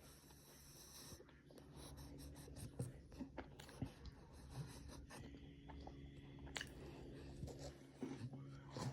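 Faint sniffling from a napping dog with a stuffy nose: irregular short snuffles and wheezy breaths, over a low steady hum.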